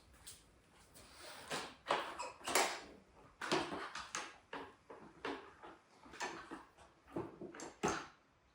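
Irregular clicks, knocks and short scrapes of hand tools and metal bike parts being handled while a dirt bike is taken apart.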